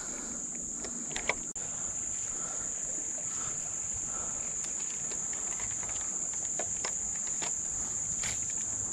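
Insects chirring steadily in one unbroken high-pitched drone, with a few faint scattered clicks.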